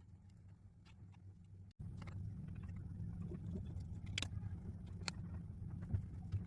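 Steady low hum, cutting out for an instant just under two seconds in and coming back louder, with a few sharp snips of paper being cut about four and five seconds in.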